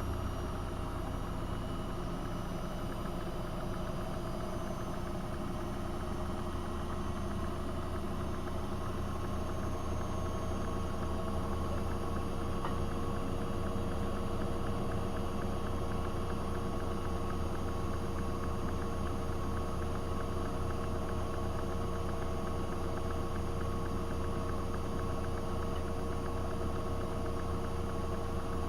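AEG Öko-Lavamat 72520 washing machine running steadily: a continuous low hum with steady tones that firm up about eight seconds in.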